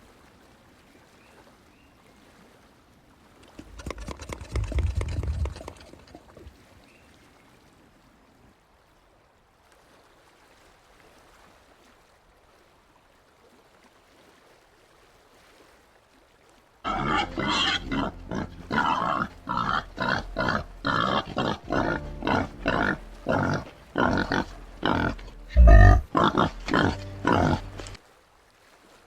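White-lipped peccaries grunting: a short burst of calls about four seconds in, then a long run of short grunts, about two a second, through the second half, with one loud thump among them.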